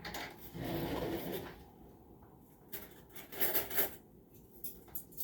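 Kitchenware being handled: a scraping or rustling stretch, then a cluster of sharp clattering knocks around the middle and a couple more near the end.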